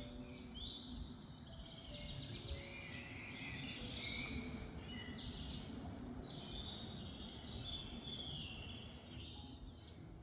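Several woodland birds singing in short, overlapping chirping phrases over a steady low rumble of outdoor noise.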